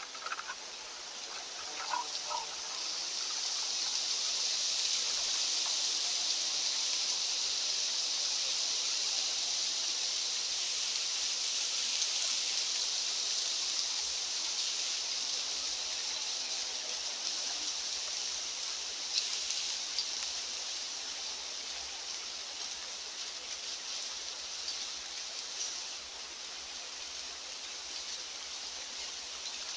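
Wind blowing: an even, high hiss that swells a couple of seconds in and eases off gradually in the second half.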